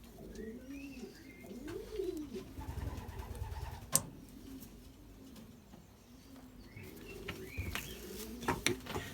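Racing pigeons cooing over and over, low rising-and-falling calls. There is one sharp click about four seconds in and a few more clicks near the end.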